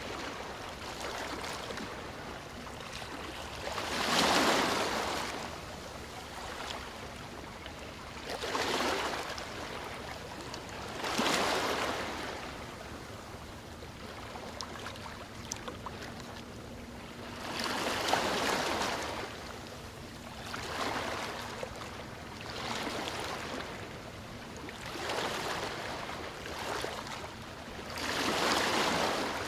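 Sea waves breaking and washing in, one swell of surf every few seconds, about eight in all, over a steady hiss of water.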